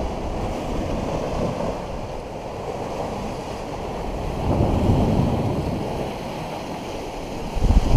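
Wind blowing on the microphone over the rush of surf, swelling about halfway through and gusting harder near the end.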